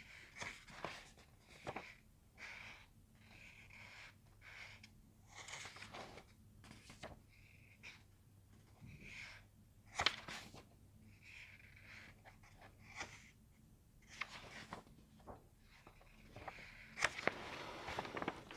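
Paper rustling and small handling noises, irregular, with a sharp click about ten seconds in and a few more near the end.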